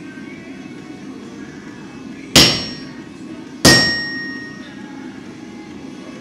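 Two hammer blows on hot steel over an anvil while a damascus billet is forged, just over a second apart, each ringing briefly with a clear metallic tone. A steady low hum runs underneath.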